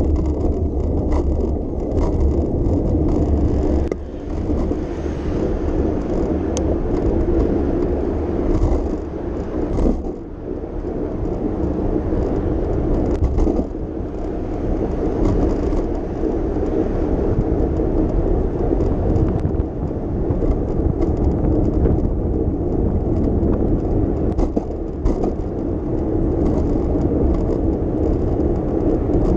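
City street ambience recorded from a moving bicycle: a steady rumble of road and wind noise with car traffic passing, broken by occasional small clicks and rattles.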